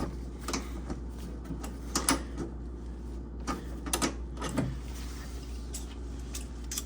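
Irregular metallic clicks and taps of wrenches working on a compression nut as a refrigerator water line is tightened onto its fitting, about eight sharp knocks spread unevenly, over a steady low hum.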